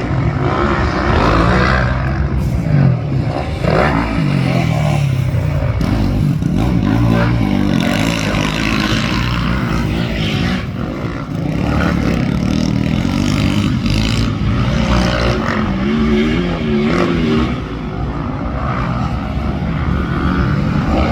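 Motocross bike engines racing, revving up and down in pitch as the bikes accelerate and shift, over a constant low rumble.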